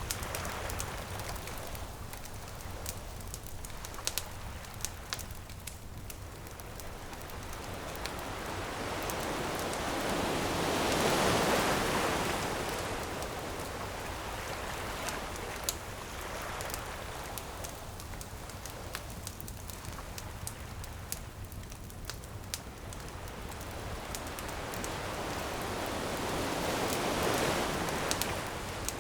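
Ocean waves washing ashore, swelling twice into a louder rush, about a third of the way in and again near the end, over the sharp crackle and pops of a burning wood bonfire.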